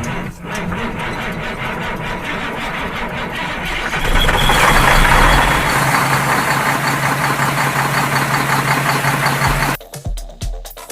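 A vehicle engine starts and runs with a rapid, even firing rhythm, growing louder a few seconds in as if revved, then cuts off suddenly near the end. Music with a regular beat follows.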